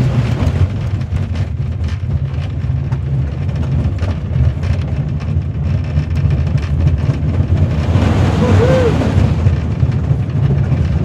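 Roller coaster train running along its track, ridden on board: a loud, steady low rumble of the wheels with wind noise on the microphone, and a brief rising-and-falling squeal about eight seconds in.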